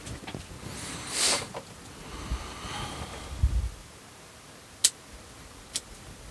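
Rustling of conifer branches being handled, then two short sharp snips of pruning shears about a second apart.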